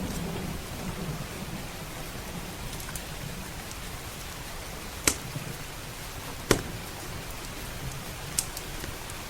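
Steady rain, with the low rumble of thunder dying away over the first couple of seconds. Three sharp pops from a crackling wood fire stand out, the loudest about five and six and a half seconds in.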